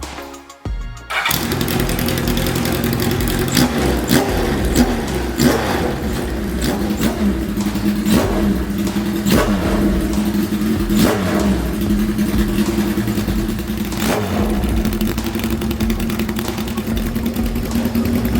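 Kawasaki Z1-R's air-cooled inline-four engine starting about a second in, then running loud and raw through a straight pipe with its silencer removed, with several short throttle blips over a steady idle.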